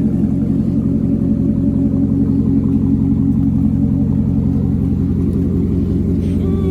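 Straight-piped car exhaust with the engine idling steadily, a loud, even rumble.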